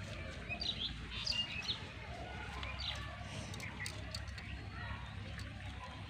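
Small birds chirping, short high calls scattered through the first half, over a steady low rumble.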